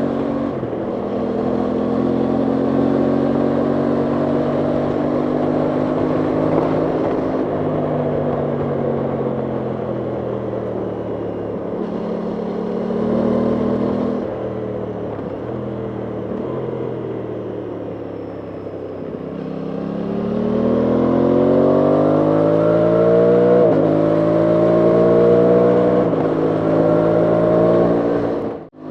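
Aprilia Tuono 660's parallel-twin engine heard from on board while riding, over wind rush: it holds a steady pitch, sinks slowly as the bike slows, then picks up from about two-thirds through, rising in pitch with two upshifts where it drops suddenly.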